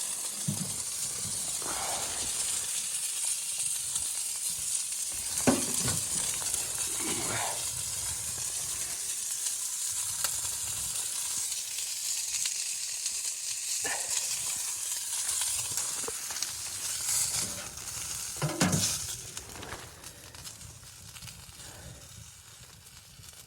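A steady high-pitched hiss with a few scattered knocks and scrapes, growing quieter near the end.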